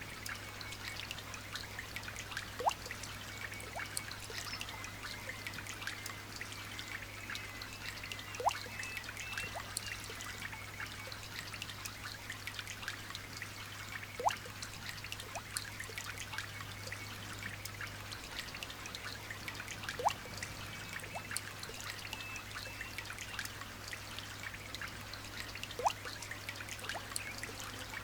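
Light rain falling in a steady patter of fine drops, with a louder single drip plinking about every six seconds.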